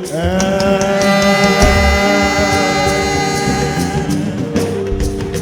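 Church choir singing a Yoruba gospel hymn: a long held note about a second in, fading near 4 s, over sustained accompaniment and sharp percussion strikes.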